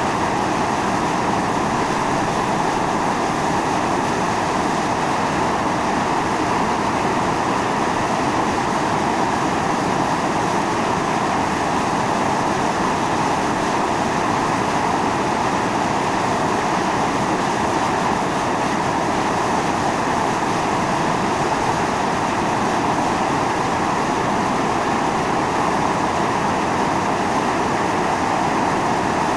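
Volcanic fumarole venting steam in a steady, even rushing hiss that is strongest in the middle range and holds at one level throughout.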